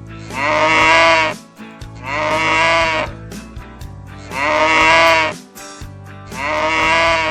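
Sheep bleating four times, each call about a second long with a wavering pitch, repeating about every two seconds over background rock music.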